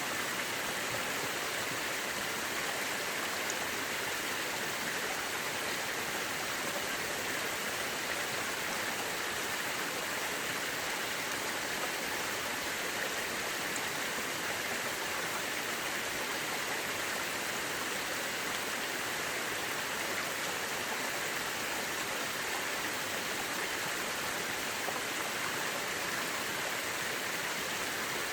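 Mountain river rushing steadily over rocks, an even unbroken water noise.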